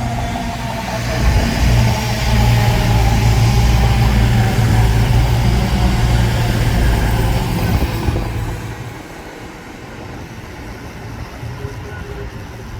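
CrossCountry diesel passenger train arriving at the platform: a steady low engine hum that swells about a second in, stays loud, and fades about eight seconds in.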